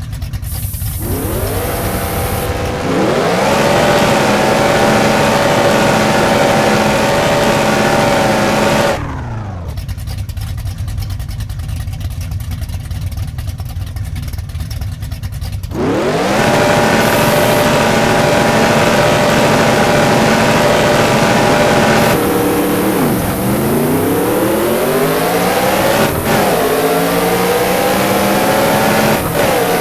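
Old Dodge Dart race car's engine revved up from idle and held at high revs for several seconds, dropped back to idle, then revved and held again. Near the end the revs dip and climb twice.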